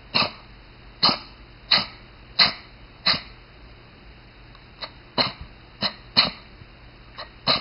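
A dog sneezing or snorting in a rapid series of short, sharp bursts, about one every two-thirds of a second, with a short pause just under halfway through.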